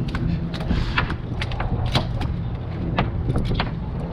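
A boat's motor runs with a steady low hum, and short clicks and knocks from handling on deck are scattered over it.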